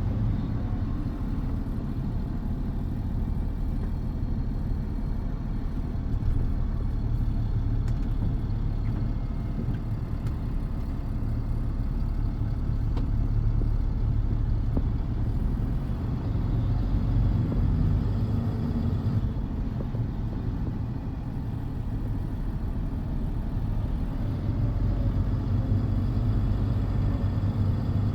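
Steady low rumble of a motor vehicle on the highway: engine and road noise running evenly.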